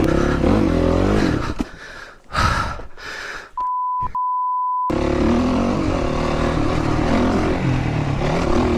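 Dirt bike engine running with a wavering pitch, then fading after about a second and a half. About three and a half seconds in, a steady beep of a single pitch sounds for just over a second with one brief break, like a censor bleep. After it a dirt bike engine runs steadily again.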